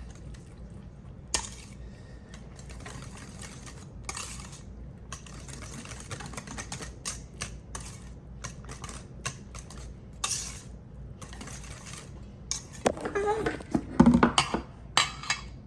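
Stirring homemade barbecue sauce in a bowl: repeated short scrapes and clinks of the utensil against the bowl. Near the end comes a run of louder knocks and clatter.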